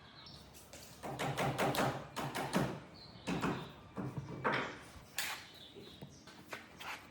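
Irregular knocks and scrapes of wood and tools being handled on a workbench, in clusters of strokes with short pauses between them.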